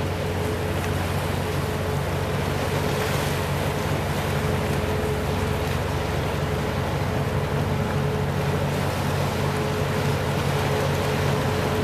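Small fishing boat's engine running steadily, a low hum with a thin higher tone held throughout, over a wash of wind and sea noise.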